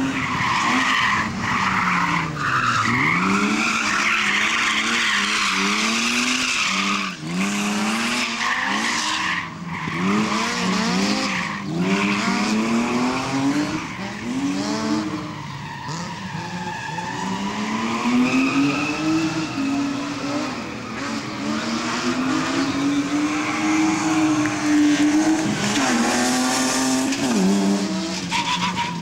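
A car engine driven hard through a cone slalom, revving up and dropping back again every second or two, with a longer pull near the end. Tyres squeal through the turns.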